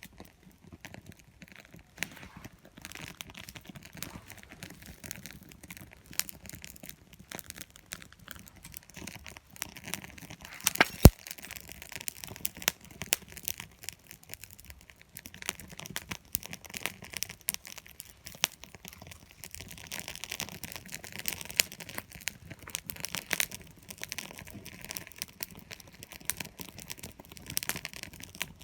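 Small wood fire in a compact steel fire pit, crackling with irregular snaps and pops, one sharp pop about eleven seconds in.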